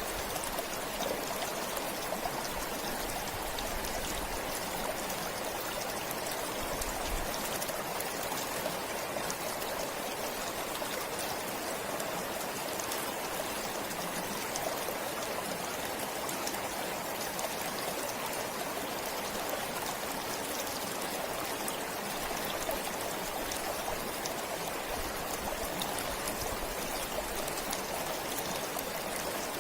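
Forest stream flowing steadily over stones, an even rushing with small trickling splashes throughout.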